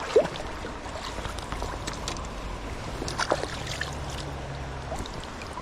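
Creek water running steadily, with a few faint clicks and ticks from the fishing tackle and handling.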